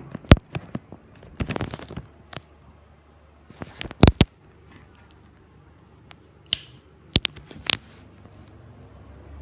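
Scattered sharp clicks and knocks, about a dozen over several seconds, the strongest about a third of a second in and around four seconds in. Near the end a low steady hum begins to build, typical of a ceiling exhaust fan starting up.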